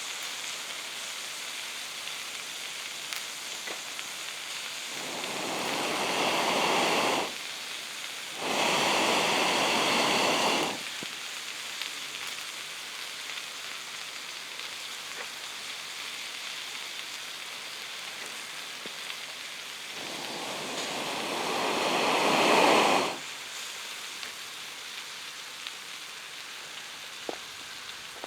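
Steady sizzling hiss of food cooking over a campfire. Three louder rushing noises of a couple of seconds each swell and then stop abruptly, two close together near the start and one later on.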